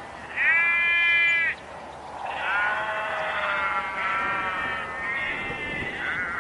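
A run of bleats, one after another. The first and loudest starts about half a second in and lasts about a second, and the later ones follow closely and overlap.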